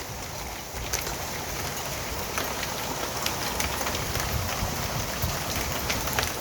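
Hail falling: a steady hiss of ice pellets hitting the ground and roof, with scattered sharp ticks of single stones.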